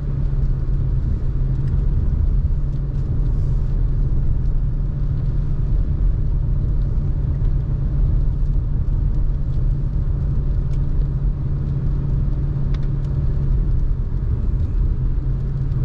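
Car engine and tyre noise heard from inside the cabin: a steady low hum and rumble while climbing a mountain road.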